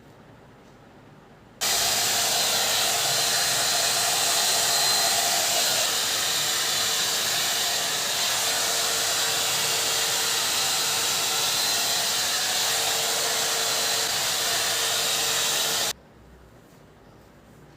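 Hair dryer switched on, blowing with a steady rush of air and a faint hum for about fourteen seconds, then switched off abruptly.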